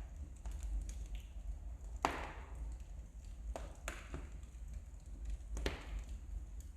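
Firewood burning in a fireplace, crackling with a few sharp pops, the loudest about two seconds in, over a steady low rumble.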